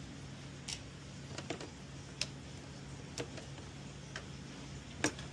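Irregular light clicks and taps, about six of them spread over a few seconds, from hands and tools handling small parts while fitting a solenoid valve in an espresso machine, over a faint steady low hum.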